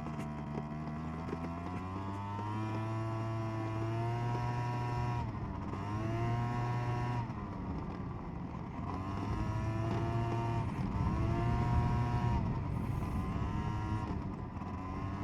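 SYM Jet2 50 scooter's two-stroke engine running under way, its pitch climbing and falling with the throttle several times, dipping about a third, half and two-thirds of the way through.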